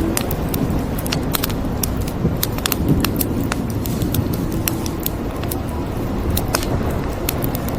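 Wood fire crackling: irregular sharp pops and snaps, several a second, over a steady low rumbling noise.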